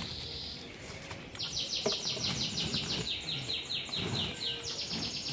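A small bird sings two rapid trills of high, evenly repeated notes, each lasting about two seconds, the second starting near the end.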